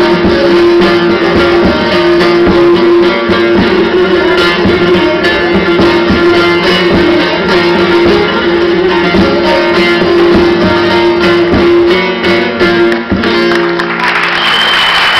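Plucked string instrument music with busy picked notes over a held note, ending near the end as applause starts.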